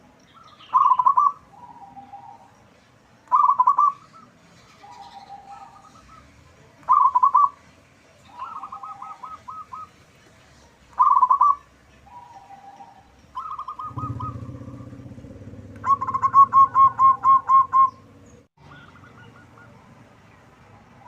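Zebra dove (perkutut) cooing: a loud, clipped coo phrase repeats every three to four seconds with softer rolling coos between. From about two-thirds of the way in a low hum starts, and a rapid run of about eight loud coos follows.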